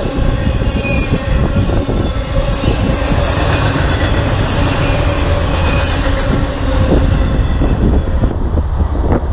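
Freight train's cars rolling past close by: a loud, steady rumble with sharp clicks of wheels over the rail and thin squeals of wheels against the rail. The high hiss drops away near the end.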